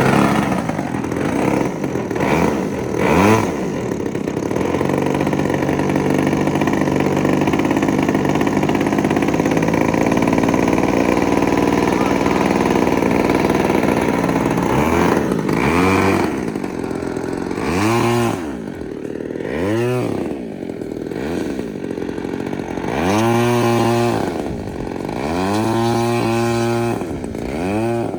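A 20cc gasoline two-stroke model-airplane engine running just after starting, steady at first. From about halfway on it is throttled up and back down several times in quick blips.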